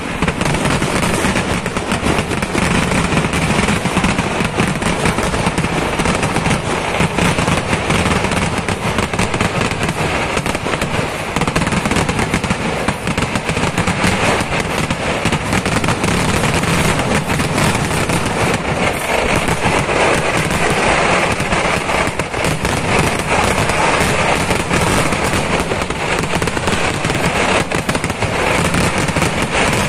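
Kerala temple fireworks (vedikkettu) going off in a dense, unbroken barrage, many loud bangs crowding into one continuous crackle with no let-up.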